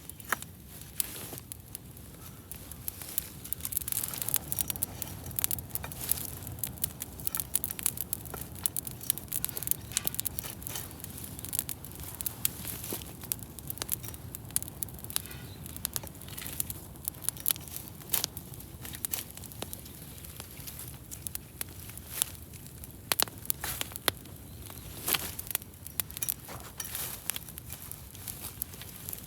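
Wood fire crackling: many irregular sharp pops and snaps over a low, steady rumble of burning.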